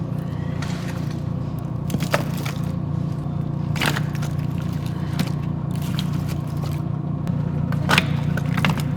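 A few sharp knocks and scrapes, about four of them, over a steady low hum.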